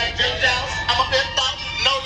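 Music with singing played through a truck's aftermarket car audio system.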